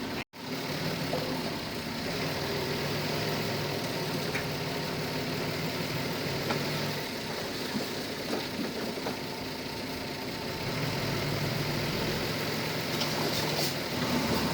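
Heavy equipment diesel engine running steadily at low revs, with a steady low hum. The sound cuts out completely for a moment just after the start.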